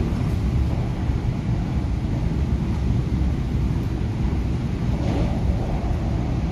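Cabin running noise of an MTR K-Train electric multiple unit travelling at speed: a steady low rumble of wheels and running gear heard from beside the doors, with a slight swell about five seconds in.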